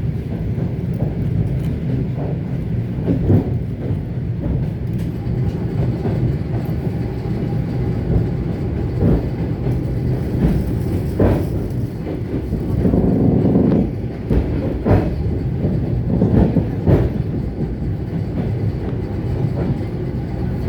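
ET2 electric multiple unit running along the track: a steady low rumble from the wheels and running gear, with irregular sharp knocks from the wheels on the rails and a louder stretch about two-thirds of the way through.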